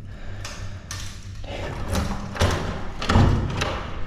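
A few dull thumps and knocks, the heaviest about two and a half and three seconds in.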